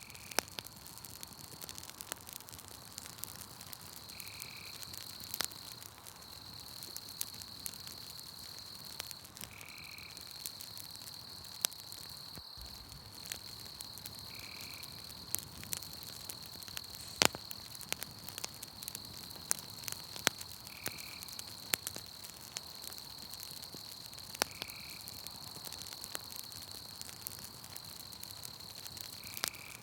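Campfire crackling with scattered sharp pops, over a steady high trill of night insects that breaks off briefly now and then. A short call repeats every five seconds or so.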